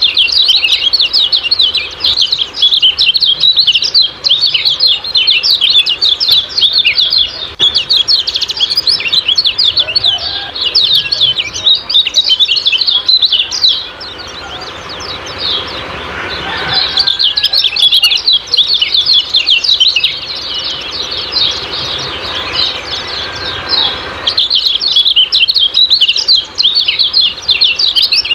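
Common iora (kecial kuning) giving its rapid 'ciak-ciak' chatter, a dense run of high chirps many to the second. The chirping thins out about halfway through, leaving a faint hiss, then picks up again.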